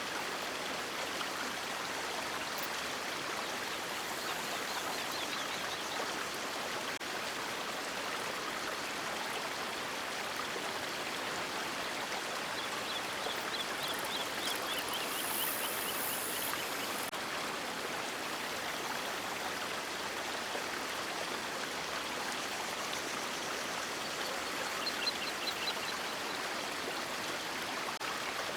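River water flowing with a steady, even rush. A few faint, short high chirps come through it around the middle and again near the end.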